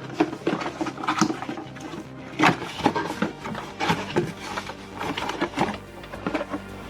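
Cardboard box of a toy being handled and opened, with irregular rustles, scrapes and knocks as the toy is lifted out.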